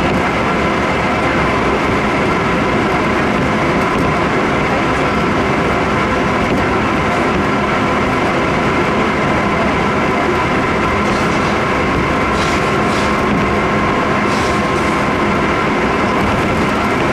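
Interior running noise of a Keisei 3700 series electric train at steady speed: an even rumble and hiss of wheels on rail with several steady whining tones held through, and a few faint ticks late on.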